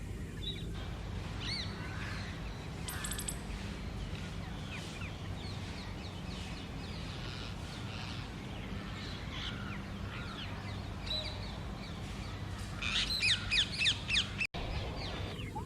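Rose-ringed parakeets calling at the nest, with scattered short harsh calls that build into a louder burst of rapid screeches about 13 seconds in, over a steady low background rumble.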